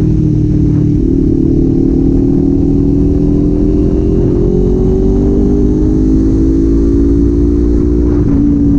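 Kawasaki Z400 parallel-twin engine pulling steadily on the move, its pitch climbing slowly, then falling near the end as the throttle is eased off, over a steady low road rumble.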